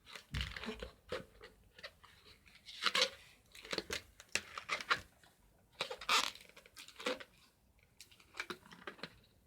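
Long latex modelling balloon being twisted and handled, giving irregular bursts of rubbing and crinkling.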